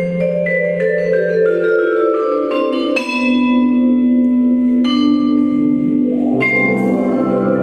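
Music played on mallet percussion: a run of struck, ringing notes stepping downward, then held notes, with fuller chords coming in about six seconds in.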